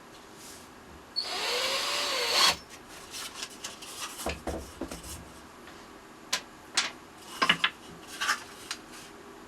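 Small electric drill runs for just over a second, its motor speeding up and winding down. It is followed by a scatter of light knocks and clicks as wood pieces are handled.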